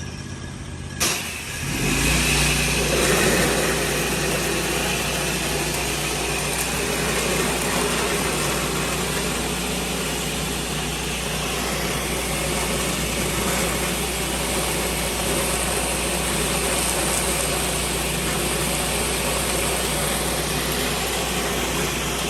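Pressure washer running; about a second in there is a sharp click and the spray starts, a steady loud hiss of the water jet over the even hum of the engine.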